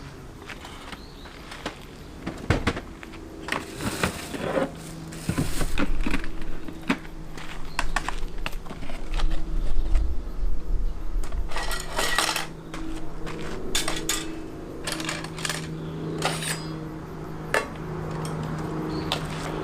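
Metal cookware and utensils clinking and clattering as they are handled, in scattered knocks and clicks that come thickest past the middle, over a steady low hum.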